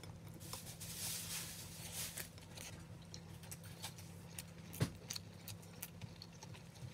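Close-miked eating sounds: chewing and a scatter of small wet mouth clicks as rice, egg and vegetables are eaten by hand, with one sharper click about five seconds in.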